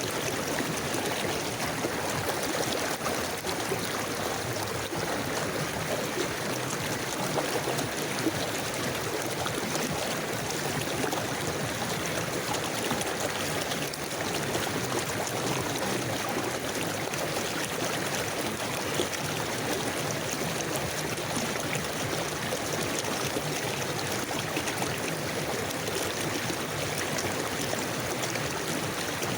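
River water flowing over stones, a steady rushing babble that does not change.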